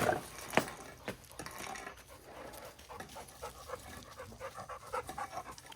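A dog making short, repeated pitched sounds, with two sharp knocks in the first second.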